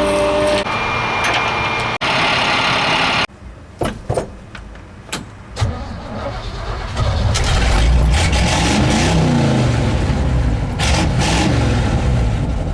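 A vehicle engine runs, then cuts off abruptly about three seconds in. After a few sharp knocks, a big engine comes up and runs loudly, its revs rising and falling.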